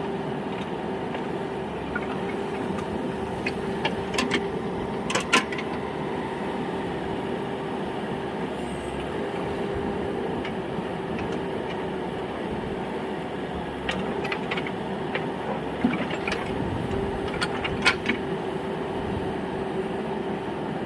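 Diesel engines of a backhoe loader and tractor running steadily during soil loading, with a constant hum and sharp knocks now and then, the loudest about five seconds in and around eighteen seconds.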